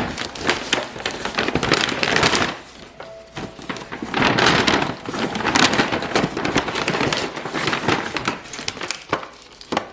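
Grocery bag being opened and rummaged through: crinkling, crackling rustle in two long stretches with a quieter pause between.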